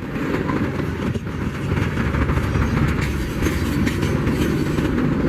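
Freight train rolling past, a heavy rumble with wheels clicking over the rails, getting louder about two seconds in.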